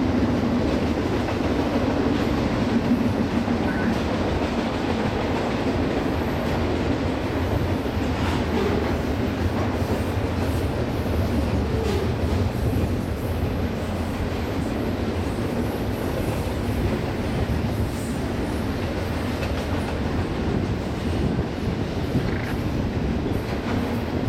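Union Pacific intermodal freight train of double-stack container cars rolling past: a steady rumble of steel wheels on rail, with some clickety-clack.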